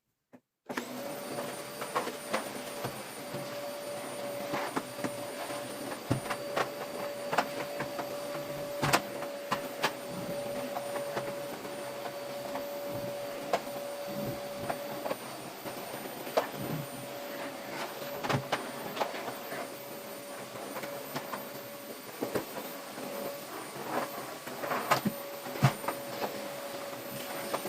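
Household cleaning sounds: a steady hum with one constant tone, with many light clicks and knocks of objects being handled throughout.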